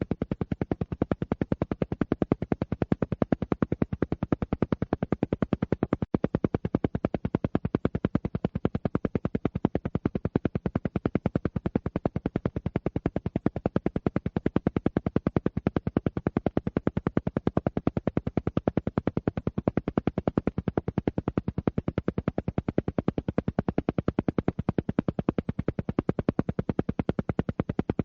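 Alpha-wave brainwave-entrainment audio: a rapid, perfectly even train of identical pulses, roughly ten a second, weighted toward the low end, with one brief dropout about six seconds in.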